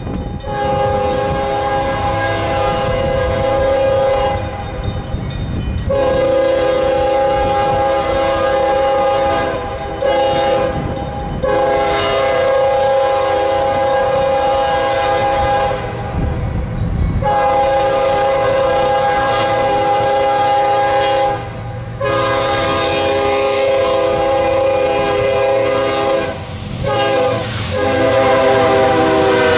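Freight locomotive's multi-chime air horn blowing a long series of blasts with short breaks. The engine and rolling train rumble underneath, and near the end the horn's pitch drops as the locomotive passes.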